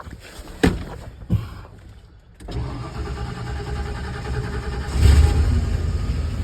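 Two sharp knocks, then about two and a half seconds in, an old truck engine starts up on a shot of ether sprayed into the air filter and keeps running, growing louder about halfway through. Catching on ether while it won't run on its own is taken as the sign of a fuel problem: stale three-year-old gas.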